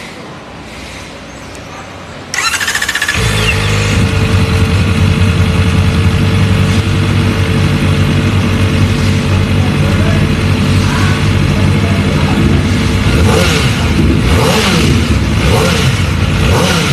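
Kawasaki ZX-4RR's inline-four engine cranking and starting about two seconds in, then running loudly through an Arrow aftermarket exhaust, its pitch rising and falling a few times near the end.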